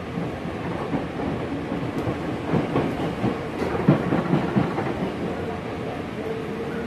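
Hankyu 5000 series resistance-controlled electric train running, heard from inside the car: a steady rumble of wheels and running gear with a faint held tone. A cluster of wheel knocks over rail joints comes in the middle.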